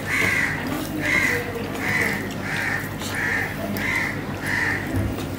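A bird calling over and over in short, evenly spaced calls, about two a second, that stop near the end, followed by a single low thump.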